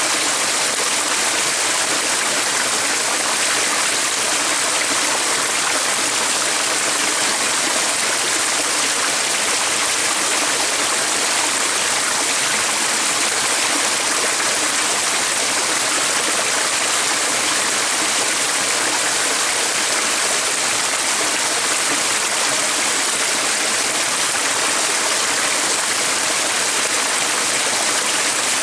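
Stream water running steadily: an even, unbroken rushing hiss with no distinct calls or knocks.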